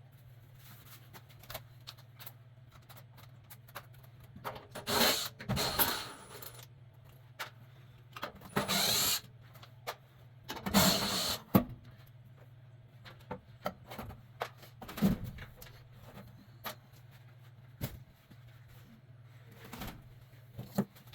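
Metal clinks and tool handling on a furnace blower assembly, with three short bursts of a cordless power driver about five, nine and eleven seconds in.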